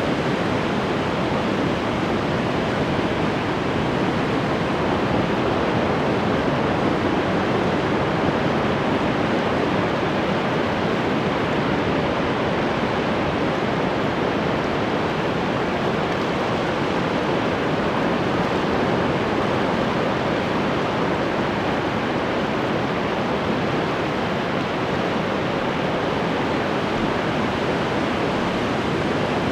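Ocean waves washing on the shore as a steady, even rush of surf, without distinct individual breakers.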